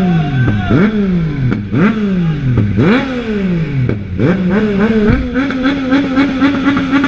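A superbike engine being revved hard in a noise contest: four quick throttle blips, each rising sharply and dying away, then held at steady high revs from about five seconds in.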